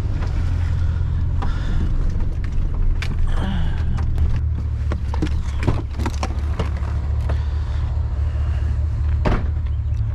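Truck engine running with a steady low rumble, with scattered clicks and knocks over it.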